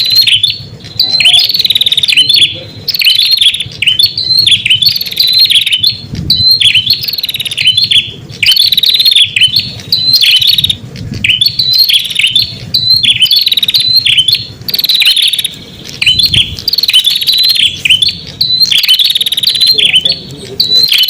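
Prenjak kepala merah (red-headed prenjak) singing, used as a lure call to draw wild prenjak: rapid, high chirping notes in repeated phrases of two or three seconds each, with brief pauses between, over a faint low hum.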